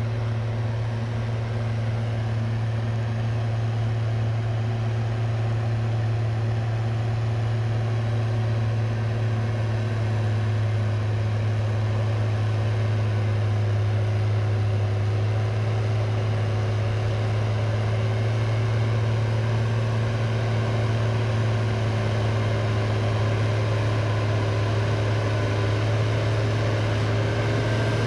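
Tractor engine running steadily at an even pitch, a constant low drone with no changes in speed.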